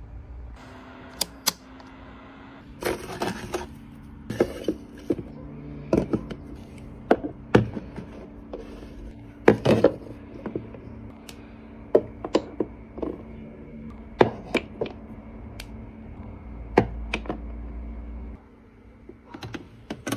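Skincare bottles and jars being set down and arranged in a small fridge: a run of irregular sharp clicks, taps and knocks of plastic and glass containers, over a steady low hum.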